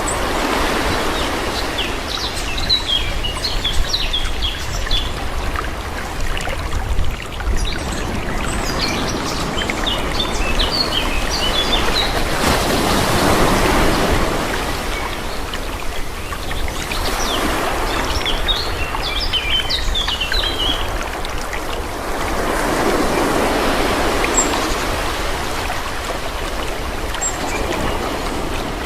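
Calm sea, gentle waves washing in and drawing back in slow swells every several seconds, over a steady low rumble. Small birds chirp in three scattered bursts.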